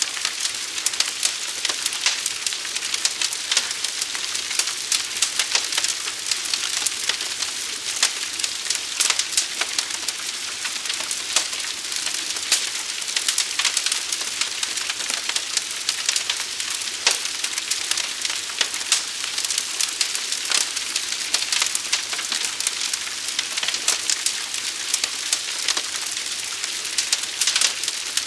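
Forest fire burning with a steady hiss and a dense, constant crackling and popping.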